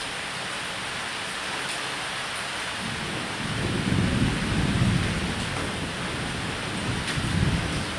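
Steady rain with rolling thunder: a low rumble swells in about three seconds in and lasts a couple of seconds, with a shorter one near the end. The rain hiss stays even under it.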